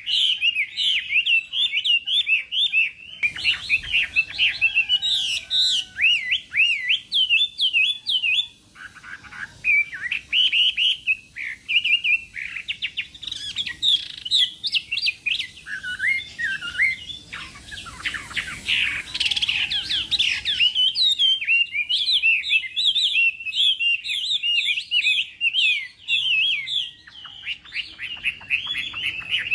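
Chinese hwamei singing a long, rapid, varied song of quick up-and-down whistled notes, with brief pauses between phrases.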